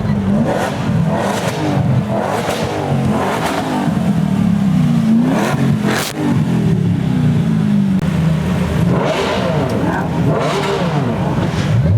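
Supercar engines revving and accelerating hard. Their pitch rises and falls over and over, several engines are heard at once, and there are short sharp breaks between revs.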